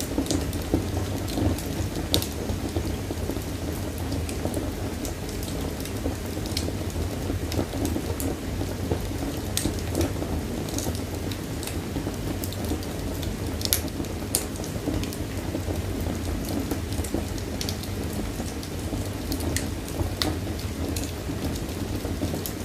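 Fire burning in a fireplace: a steady low rumble of flames with sharp crackles and pops at irregular intervals, a few of them louder than the rest.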